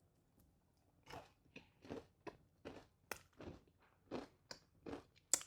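Close-up crunching and chewing of a thin, crisp Crumbl cookie butter cookie thin: a run of short, separate crunches, about two a second, starting about a second in.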